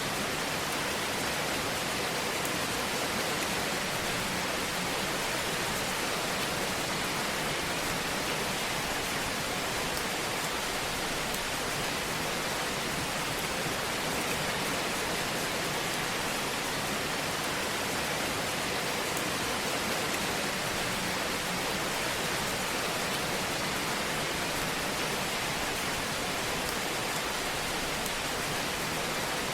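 Fire burning in a fireplace: a steady, even hiss with fine, dense crackling.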